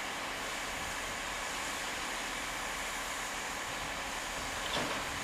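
Class 165 diesel multiple unit drawing slowly into a station, its diesel engines running steadily, with a short squeal near the end.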